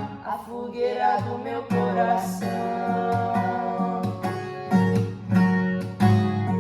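Acoustic guitar strumming chords in a steady rhythm, with a sung note trailing off in the first second.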